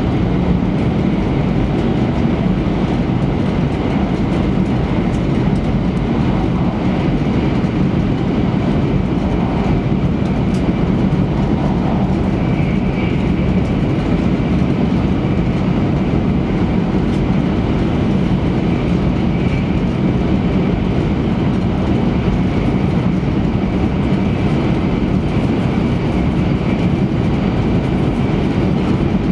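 Running noise inside a JR East E3 series shinkansen car at speed: a steady, even low rumble that never lets up.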